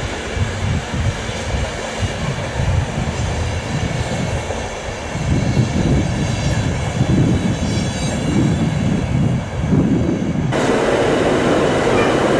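Passenger train hauled by a Siemens Vectron electric locomotive running through a station, with a fluttering low rumble. About ten seconds in, a sudden louder hiss sets in.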